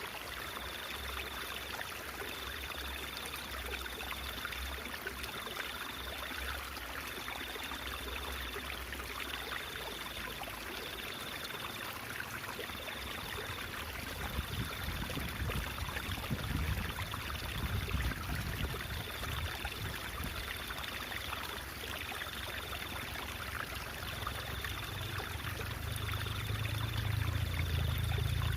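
Stream water trickling and babbling steadily. A faint high tone pulses about once a second throughout, and a low rumble comes in from about halfway, strongest near the end.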